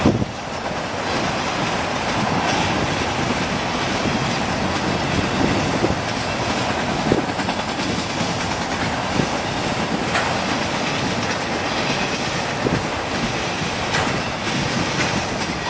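Train passing close by: a steady rolling rumble of railcar wheels on the rails, with occasional sharp clacks.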